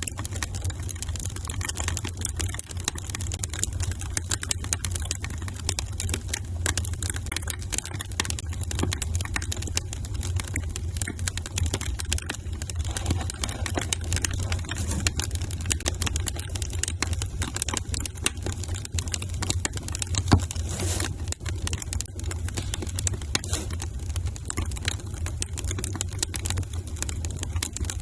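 Wood fire crackling: a dense, irregular run of small snaps and pops over a low steady rumble, with one sharper pop about twenty seconds in.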